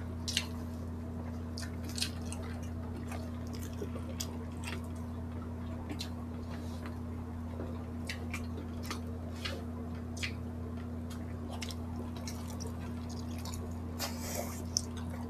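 Wet mouth sounds of people eating grilled pork belly and rice by hand: scattered short smacks and clicks of chewing, a few sharper ones, over a steady low hum.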